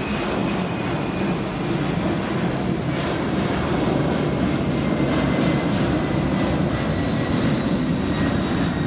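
Jet airliner departing at take-off power: a steady, loud engine rumble growing slightly louder, with a faint whine that falls slowly in pitch as it passes.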